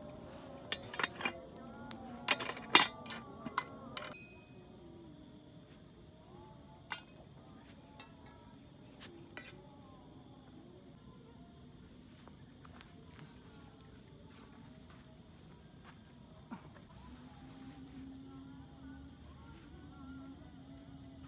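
Insects chirring steadily in a high, even drone. Several sharp clicks and knocks come in the first four seconds.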